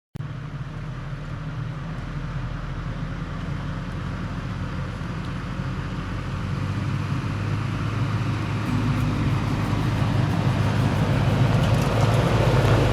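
Engine and road noise of a Toyota FJ Cruiser being driven: a steady low hum under a rushing noise that grows gradually louder.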